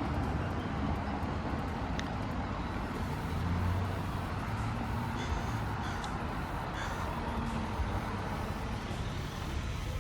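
Steady road noise of a moving vehicle: an even rumble with a low hum.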